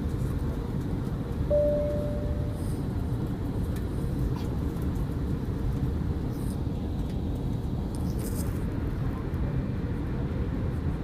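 Steady low rumble of an Airbus A321's cabin on approach, from its engines and the airflow over the fuselage, heard from inside. A short steady tone sounds about a second and a half in.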